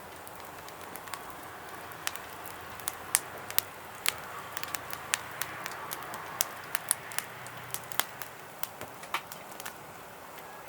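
Wood fire burning in a fire pit: a steady hiss with frequent, irregular sharp crackles and pops.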